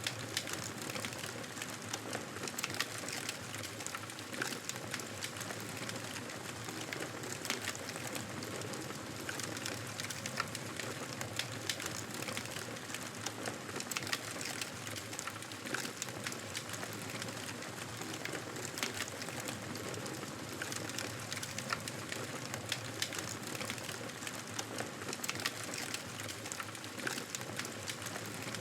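Wood fire crackling in a fireplace: a steady hiss dotted with frequent small, irregular pops and snaps.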